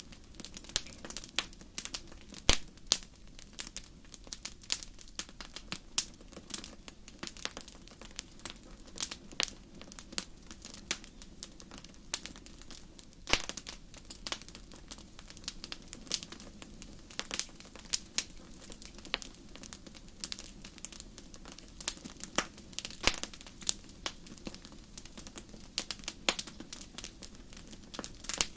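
Fireplace fire crackling, with sharp pops coming irregularly several times a second over a steady low background; the sharpest pops come a couple of seconds in and about halfway through.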